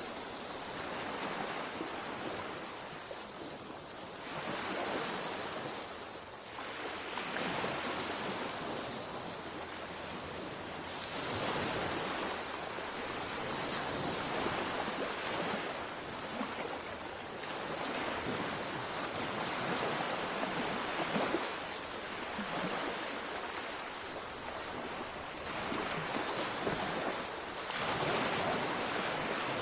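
Sea waves breaking and washing on a shore, a continuous surf hiss that swells and eases every few seconds.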